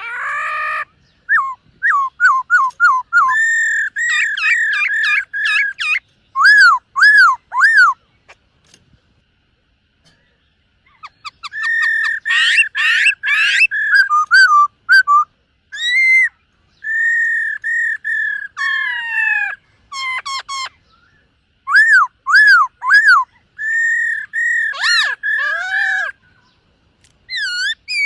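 Black-throated laughingthrush singing: runs of loud, clear whistled notes, many rising and falling in short arches and repeated several times in a row, with a pause of a few seconds about a third of the way through.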